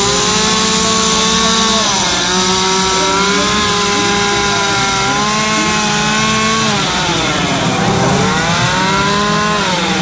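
Two-stroke chainsaws running at high speed in wood carving. The main saw's pitch sags about two seconds in and again near the end, then climbs back each time, while another saw holds a steadier note underneath.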